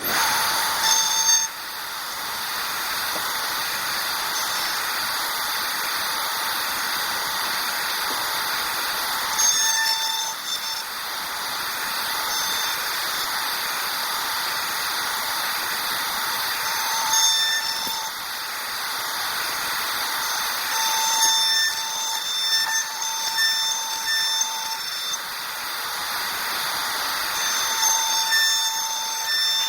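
CNC woodworking milling machine cutting wood: a steady hissing whir from the spindle, with a high-pitched whine that comes and goes in short runs, several of them close together past the middle.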